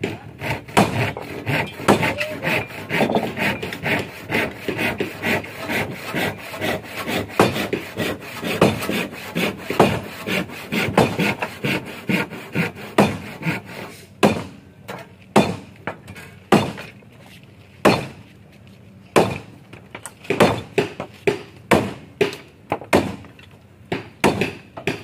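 Hand tools working on wood: quick rough sawing or scraping strokes for about the first half, then separate sharp knocks on the timber, about one or two a second.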